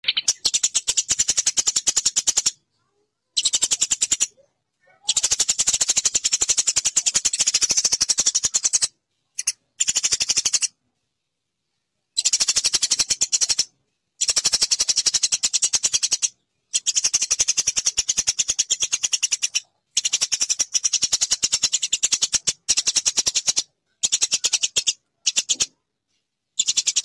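Eurasian tree sparrows chirping in rapid, dense chattering bouts of a few seconds each, starting and stopping abruptly with dead silence between bouts, as in an edited training recording.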